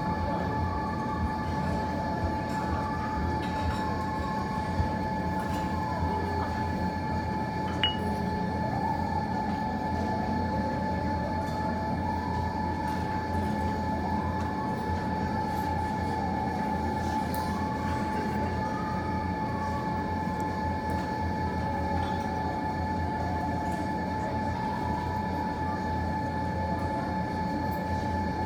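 Steady mechanical hum with a constant high whine, and a couple of faint short pops about five and eight seconds in.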